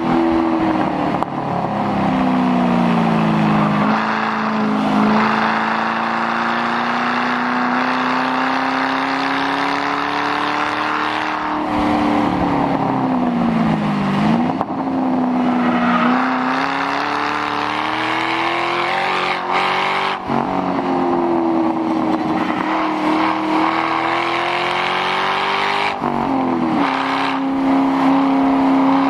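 2006 Mustang GT's 4.6-litre V8 running with the mufflers deleted, driven hard. The engine note climbs steadily through long pulls, then several times drops sharply and picks up again as the car shifts or lifts.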